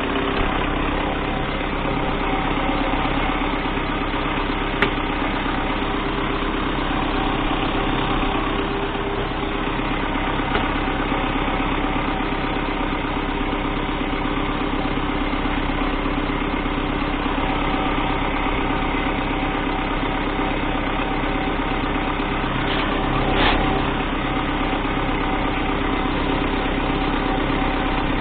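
MTZ-892 tractor's four-cylinder diesel engine idling steadily, with a single sharp click about five seconds in and a brief louder noise near the end.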